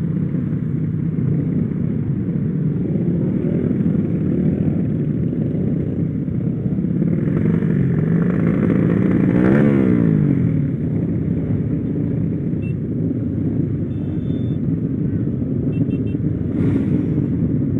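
Small motorcycle engine running steadily under way. About halfway through, a louder engine swells and fades, its pitch rising and falling as it goes by.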